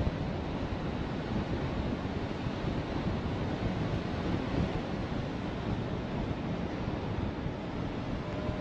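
Strong wind rushing over and buffeting the microphone during a paragliding flight, a steady rumbling noise with no clear breaks.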